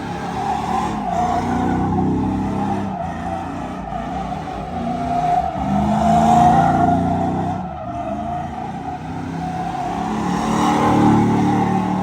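A vehicle drifting or doing a burnout: its engine revs up and down in three swells over a continuous tire squeal.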